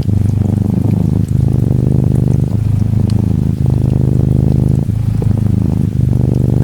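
Orange tabby Norwegian Forest Cat kitten purring steadily, the purr breaking briefly about every second and a quarter as it switches between breathing in and out. Faint rain patters behind it.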